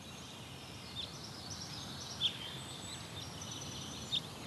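Outdoor ambience of small birds chirping: a few short, sharp, high notes, the loudest about halfway through, over steady background noise with thin high steady tones.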